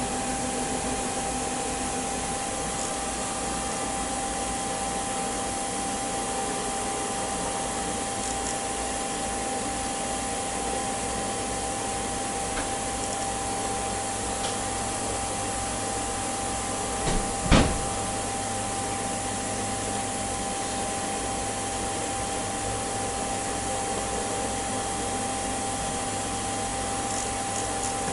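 A machine tool running steadily, a constant whine over an even hiss, while metal round bar is machined. A single sharp knock comes about seventeen seconds in.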